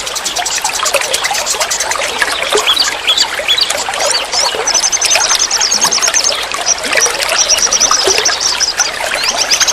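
Forest stream trickling and bubbling over stones, with a high, rapid trilling call that starts about halfway through, pauses briefly and comes again near the end.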